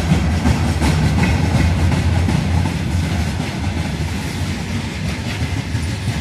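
Freight train of gondola cars and boxcars rolling past: loud, steady rumble of steel wheels on the rails, with rapid clicking as the wheels cross the rail joints.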